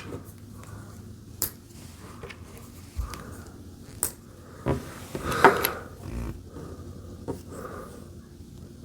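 Plastic LEGO pieces clicking and tapping as they are handled and pressed together, in scattered single clicks with the sharpest about a second and a half, four and five and a half seconds in.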